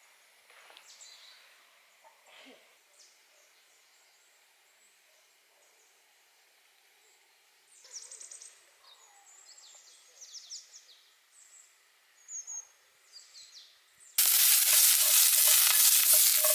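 Food frying with a loud, steady sizzle that starts abruptly about fourteen seconds in. Before it, a few faint high chirps over a quiet background.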